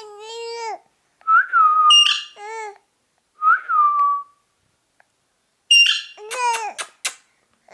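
Ringneck parakeet vocalising: a run of short whistled notes that end with an upward flick, mixed with high, nasal chattering calls that bend in pitch, in about five separate bursts.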